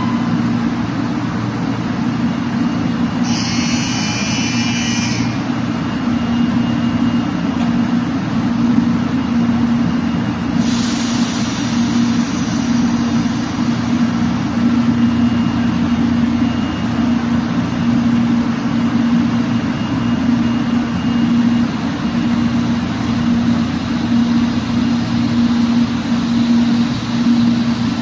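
0 Series Shinkansen standing at the platform with its onboard machinery running: a steady hum with a low tone that pulses slightly. A short hiss comes about three seconds in, and a brighter hiss from about ten to fourteen seconds in.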